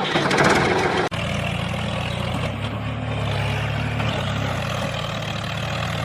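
A motor running steadily with a low, even hum, cutting out for an instant about a second in.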